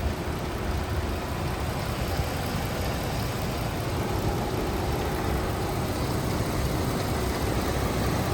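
Chrysler 300 engine idling steadily with the hood open, an even running hum with no revving.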